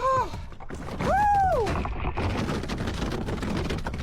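A person's excited shouts: a short 'oh' at the start, then a long 'woo!' about a second in, rising and falling in pitch. A rough rumbling noise with crackles starts under the 'woo' and carries on.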